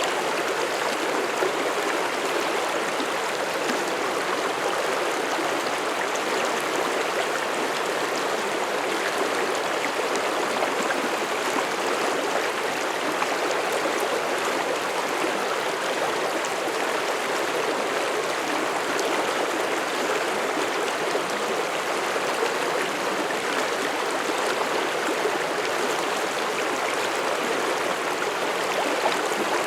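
Mountain stream rushing and burbling over rocks, a steady unbroken flow with no lulls.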